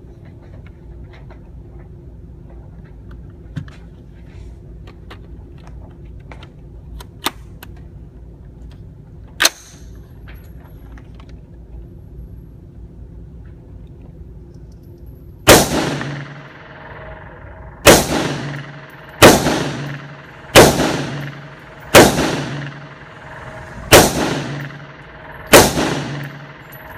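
Seven gunshots fired one at a time, about one and a half to two seconds apart, each with a ringing echo, beginning a little past the middle. Before them, only steady background with three small sharp clicks.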